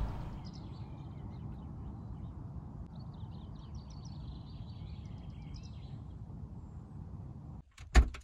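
Birds singing faintly in short chirping phrases over a steady low outdoor background noise. Near the end the ambience cuts out and there is a sharp knock, then a smaller click.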